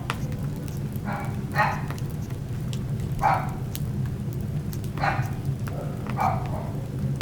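A dog barking in six short single barks spaced about one to two seconds apart, over the crackle of a burning wood fire and a steady low hum.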